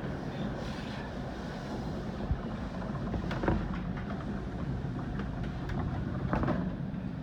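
Inside an NJ Transit commuter train car in motion: a steady rumble of the wheels and running gear on the track, with a few sharp knocks, the loudest about three and a half seconds in.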